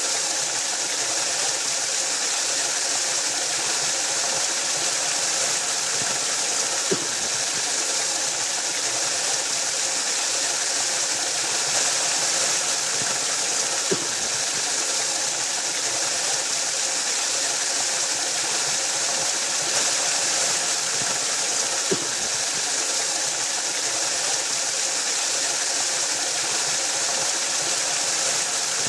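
Waterfall: a steady, even rush of falling water, with a faint low knock three times, about seven to eight seconds apart.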